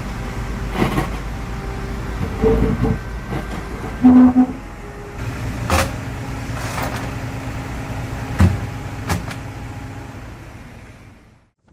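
Heavy machine's engine running steadily, with a series of sharp metallic clanks and knocks from the working machine. The sound fades out near the end.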